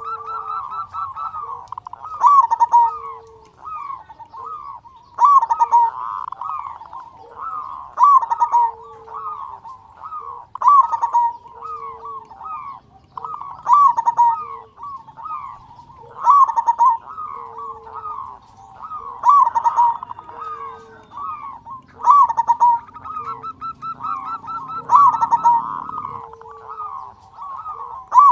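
Zebra dove (perkutut) in full song, cooing a loud rolling phrase about every three seconds, with softer trilled notes between the phrases.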